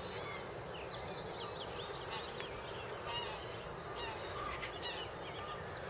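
Several small birds singing, many quick high chirps and twittering phrases overlapping, over a steady low outdoor background hiss.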